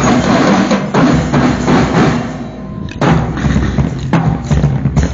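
Marching drum band playing, drums and percussion beating out a steady rhythm. It drops off briefly about two and a half seconds in, then the full band comes back in with strong hits.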